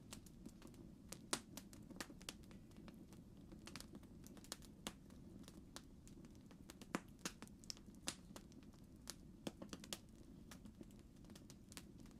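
Campfire burning, wood crackling with irregular sharp pops over a low, steady bed of fire noise.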